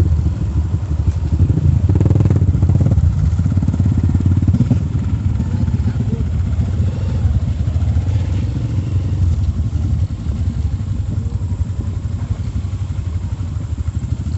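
Motorcycle engine running steadily with a rapid low pulsing, loudest a couple of seconds in.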